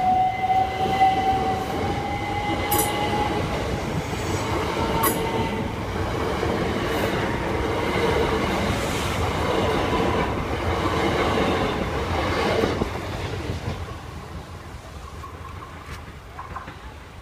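Class 375 Electrostar electric multiple unit passing at close range, its wheels rumbling and clacking over the rails, with a whine that rises in pitch over the first few seconds. The sound fades away about 13 seconds in as the last carriage goes by.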